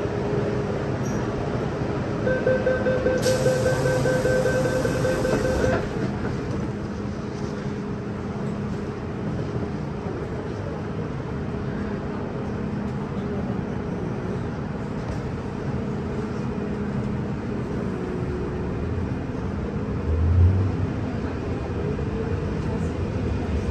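MTR M-Train metro car with its doors closing to a beeping warning tone for a few seconds, then the train running with steady traction motor and wheel-on-rail noise. A brief low thump comes about twenty seconds in.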